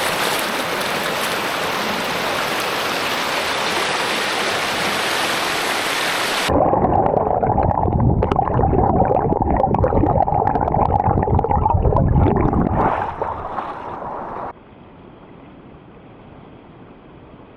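Waterfall and brook water: an even, full rush of falling water, cutting suddenly about six and a half seconds in to a closer, lower churning and gurgling of water, then dropping abruptly near the end to a quieter steady rush.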